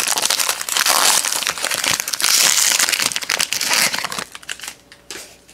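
Plastic trading card pack wrapper being torn open and crinkled by hand. The crackling is loud for about four seconds, then dies down to a few light rustles and clicks.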